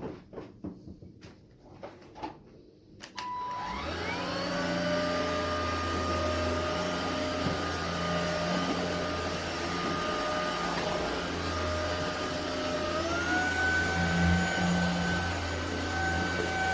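Cordless stick vacuum cleaner, an ElecKeys K10: a few clicks and knocks of handling, a short beep, then the motor spins up with a rising whine and runs steadily. About two-thirds of the way through, its whine steps up in pitch as the motor speeds up.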